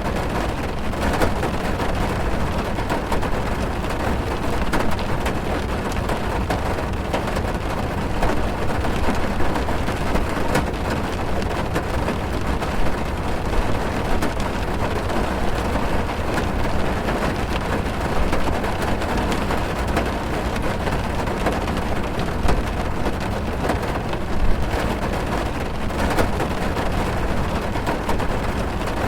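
Heavy rain falling on a car's roof and windows, heard from inside the cabin: a steady dense patter of drops over a deep low rumble.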